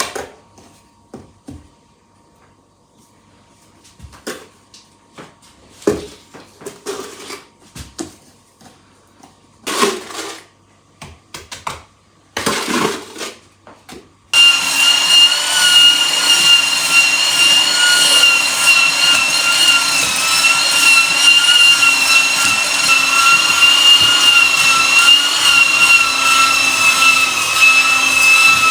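Scattered knocks and clicks of things being handled, then about halfway through a small high-speed electric motor switches on and runs steadily with a high whine.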